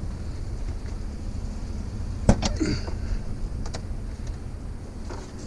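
A sharp knock about two seconds in, then a short rattle and a smaller click, as a TV power cord and plug are handled, over a steady low rumble.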